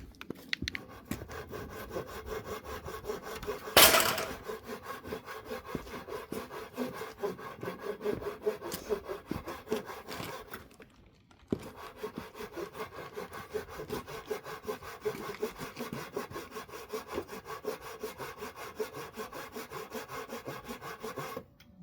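Wood being sawn by hand in quick, even back-and-forth strokes, with a short pause about halfway through. A loud knock comes about four seconds in.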